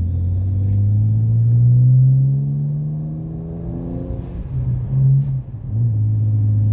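BMW 335i's N54 twin-turbo straight-six, running through a straight-pipe exhaust with the muffler and resonator deleted and the cats kept. The engine note climbs for about two seconds, eases off slowly, gives a short surge about five seconds in, then holds steady.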